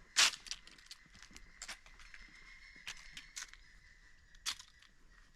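Footsteps crunching irregularly on a dirt and gravel trail, the loudest step a moment in, over a steady faint high tone.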